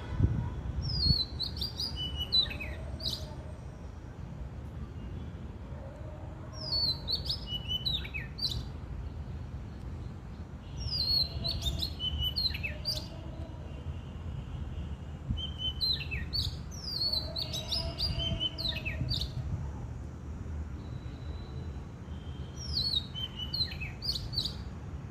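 A songbird singing the same short phrase five times, roughly every five seconds: a quick run of falling high whistled notes ending in a few sharp, quick notes. A steady low rumble sits underneath.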